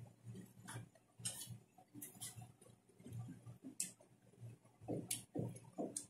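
Crunchy chewing of raw yellow bell pepper close to the mouth: crisp snapping clicks as the flesh breaks, settling into a steady chewing rhythm of about two chews a second in the second half.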